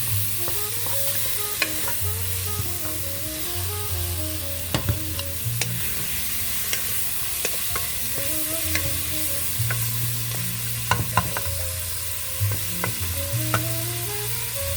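Chicken frying in a pan with a steady sizzle, and scattered clicks of a utensil against the pan.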